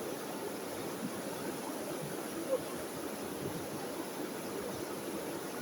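A small river running steadily over stones, a constant babbling rush of water, with one brief louder splash or knock about two and a half seconds in.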